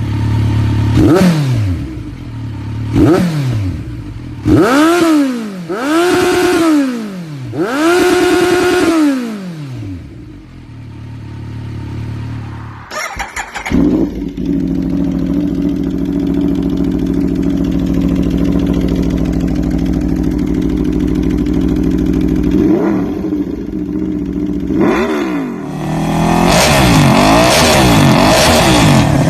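Motorcycle engine through an SC-Project CRT slip-on exhaust, revved in about five quick throttle blips that each rise and fall. About halfway through it settles to a steady idle. It is then revved again in fast repeated blips near the end.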